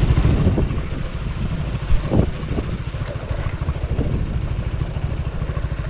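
Motorcycle engine running at low speed with a steady, rapid low pulse.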